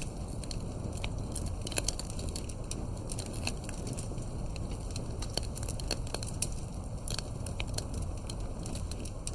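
Campfire burning, with frequent irregular crackles and pops of wood over a steady low rumble of the flames.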